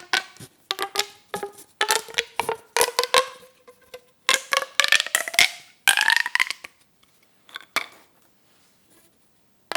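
Plastic pop tubes being stretched and squeezed: a quick run of crackling pops, each with a short hollow ringing tone. Around the middle the pitch rises as a tube is pulled out. Near the end the pops thin out to a few faint ones before starting again.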